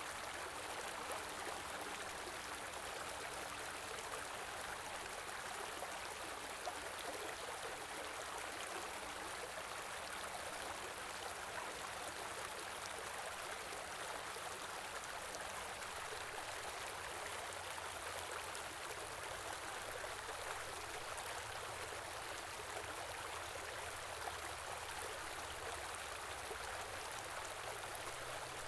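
Small river flowing steadily, an even rushing and babbling of water over stones.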